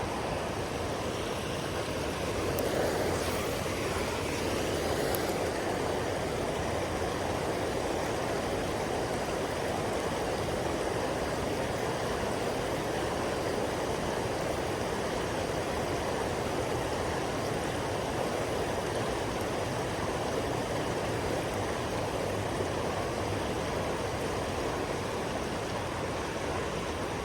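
Steady rush of flowing river water, an even noise with some low rumble.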